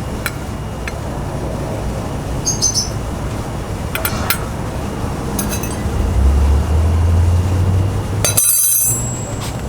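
Light metallic clicks and clinks as the metal tone wheel and its screws are handled and set against the Vespa's wheel hub, ending in a bright ringing clink near the end. A low rumble rises in the middle and fades just before that clink.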